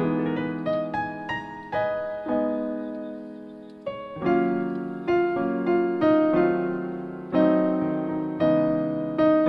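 Background music: slow, gentle piano, with chords and single notes struck and left to ring and fade.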